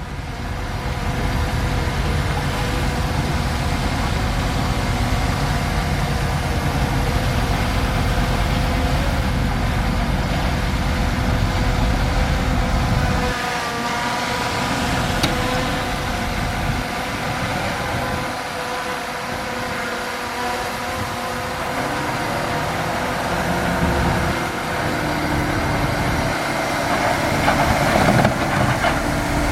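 Bulldozer's diesel engine running steadily with a deep rumble that drops away a few times and comes back.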